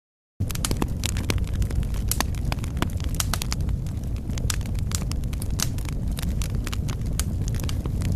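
Wood fire crackling in a fireplace: many sharp, irregular pops and snaps over a steady low rumble of the flames, cutting in after a split second of dead silence at the start.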